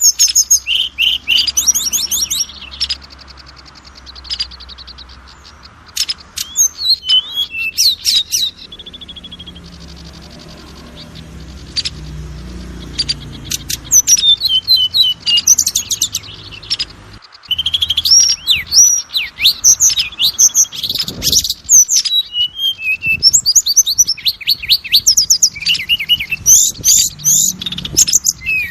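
Oriental magpie-robin singing in fast, varied bursts of loud whistles and chattering notes, broken by a lull of a few seconds about a third of the way in.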